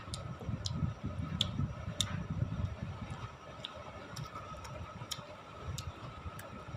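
Eating sounds: a dozen or so small, sharp clicks at irregular intervals over a low, uneven rumble of chewing and handling.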